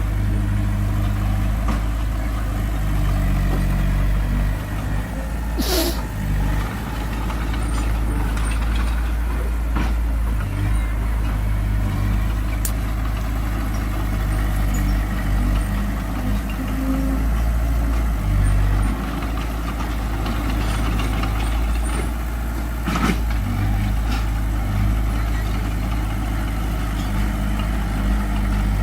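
Heavy diesel machinery engine running steadily with a low drone, with two brief sharp sounds about six seconds in and again near the end.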